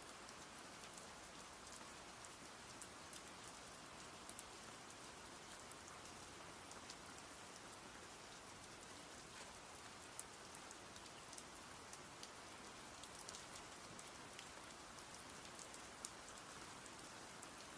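Rain falling steadily: a faint, even hiss with many small drop ticks scattered through it.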